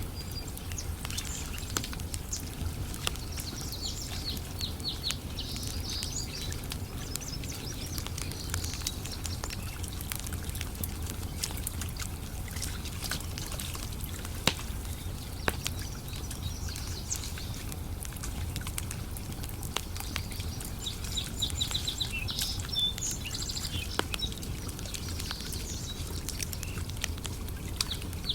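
Campfire crackling with scattered sharp pops, one louder pop about halfway, over a low steady rumble. Birds chirp in bursts near the start, about halfway and near the end.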